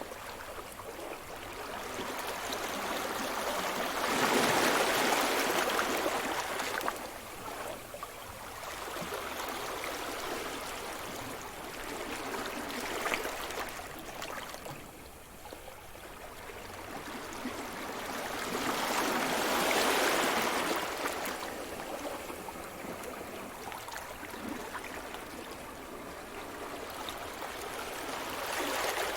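Sea surf: waves breaking and washing up the shore in slow swells that rise and fall away. Big waves break about four seconds in and again near twenty seconds, with a smaller one around thirteen seconds.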